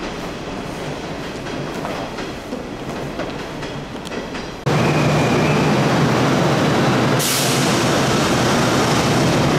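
Electric train standing at a station platform. After an abrupt cut the sound becomes a louder steady low hum, and about seven seconds in a short hiss of air as the doors close.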